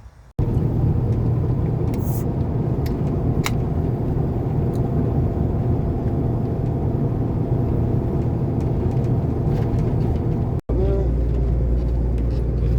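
V8 Hotstox stock car engine running at a steady pace with a deep rumble, without revving up or down. It starts abruptly just after the start, cuts out for an instant about ten and a half seconds in, and comes straight back with a heavier low rumble.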